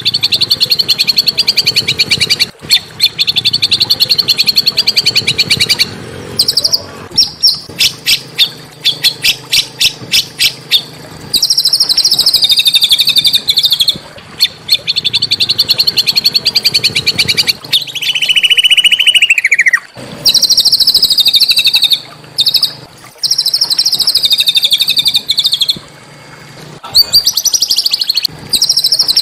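Small songbird singing fast, harsh, tightly packed trills in phrases several seconds long with brief pauses, one phrase ending in a downward slur. It is masteran song used to tutor white-rumped shamas, with a faint low hum underneath.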